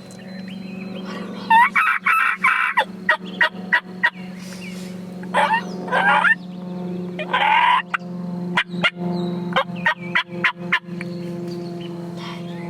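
Wild turkeys gobbling several times in loud rolling bursts, followed near the end by a quick run of short, sharp calls.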